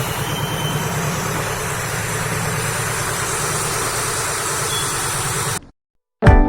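A steady engine hum under a broad hiss, cutting off abruptly near the end. It is followed by a short silence and then strummed acoustic guitar music.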